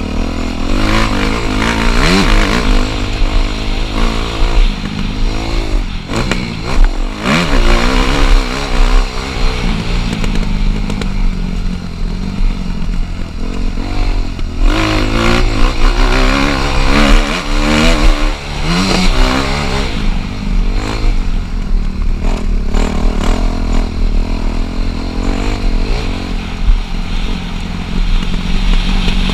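Dirt bike engine ridden hard, its pitch rising and falling again and again as the throttle is opened and shut.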